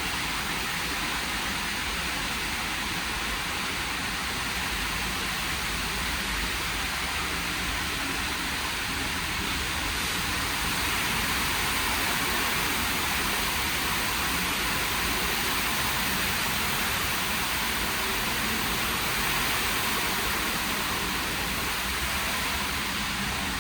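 WashTec SoftCare² Takt rollover car wash running, with water spraying in a steady rushing hiss that swells a little about halfway through.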